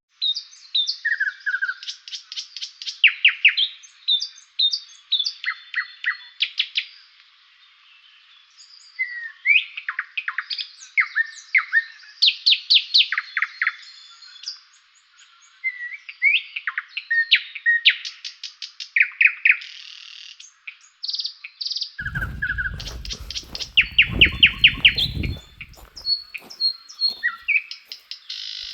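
Songbirds singing and calling: overlapping rapid series of high chirps, trills and short whistled notes. A low rumble joins for a few seconds near the end.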